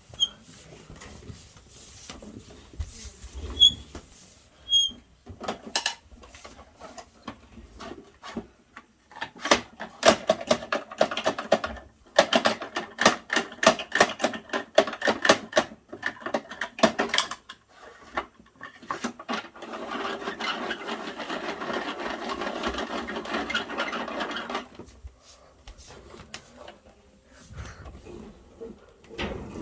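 Plastic mechanisms of a Bruder toy garbage truck being worked by hand. Scattered clicks give way to a long run of fast clicking and rattling, then about five seconds of steady rasping.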